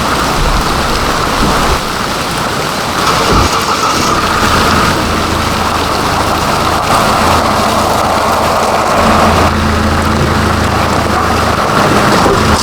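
Heavy rain falling, a steady loud hiss. A low steady hum joins about four and a half seconds in and fades near the end.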